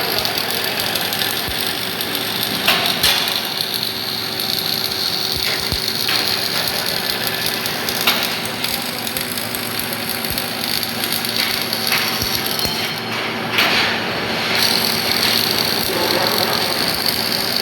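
MIG welder arc crackling and hissing steadily, with a short break a little past the middle, over a steady hum and a few sharp knocks.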